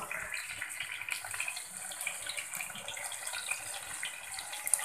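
Roasted chicken pieces sizzling in hot oil in a kadai: a steady hiss dotted with small pops, and one brief sharper click near the end.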